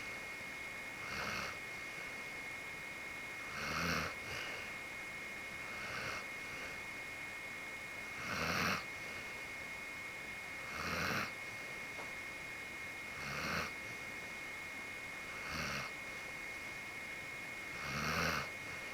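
Akita dog snoring in deep sleep, a snore about every two and a half seconds, eight in all.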